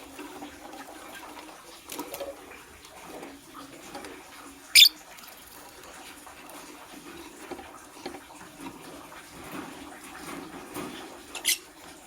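Lovebird giving two short, sharp, high-pitched chirps, about five seconds in and again near the end, over steady soft rustling and scratching.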